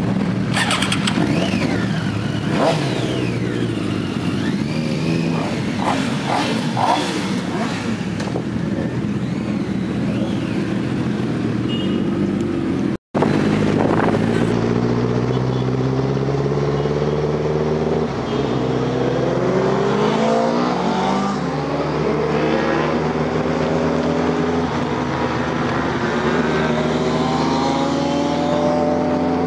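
Superbike engines running and revving amid traffic noise. After an abrupt cut, a superbike accelerates through the gears, its engine note climbing again and again and dropping back at each shift.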